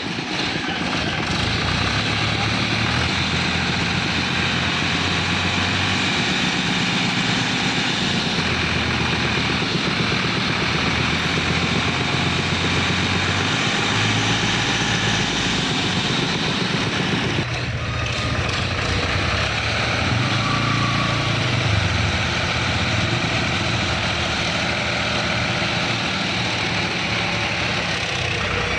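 Tractor diesel engine running steadily, its pitch shifting up and down at times, with an abrupt change in the sound about two-thirds of the way through.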